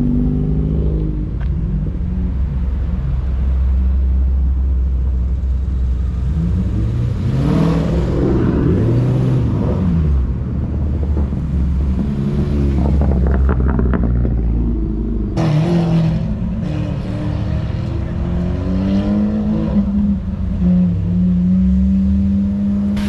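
Car engines running and revving at a car meet, with engine pitch rising and falling as cars rev and pull away; the sound changes abruptly about fifteen seconds in.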